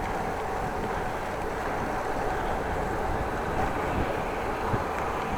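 Steady rush of wind on the microphone and rolling noise from a bicycle being ridden, with a couple of small knocks near the end.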